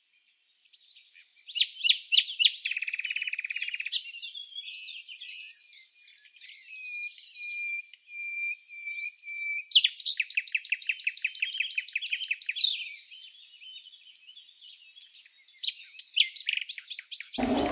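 Songbirds singing and chirping: a varied run of trills, quick repeated notes and a thin, steady whistle, with a fast rattling series of notes about ten seconds in.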